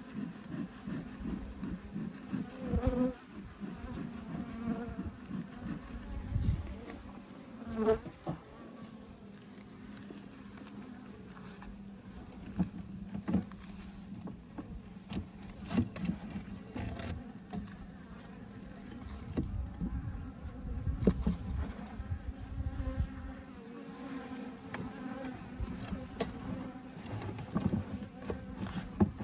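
Honeybees buzzing as a steady hum around an open Layens horizontal hive. Scattered clicks and knocks run through it.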